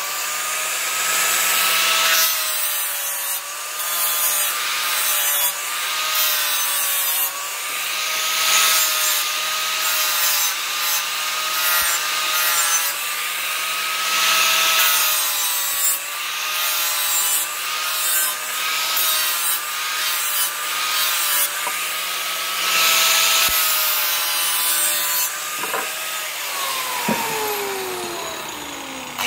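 Electric grinder grinding steel, its motor whine wavering in pitch as the blade is pressed and eased off, with surges of scraping noise. Near the end it is switched off and winds down in a falling whine.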